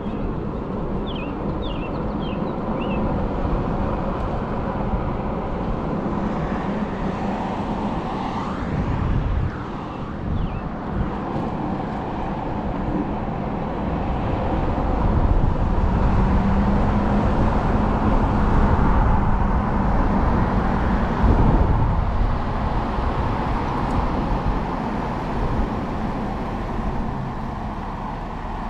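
Vehicle noise with heavy wind rumble on the microphone, typical of riding a 72 V electric motorcycle. The rumble swells in the middle and eases off near the end.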